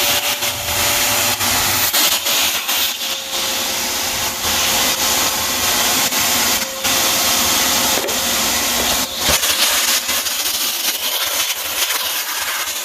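Vacuum cleaner running steadily, with a constant motor tone and brief knocks and scrapes of the nozzle now and then as it picks up dust.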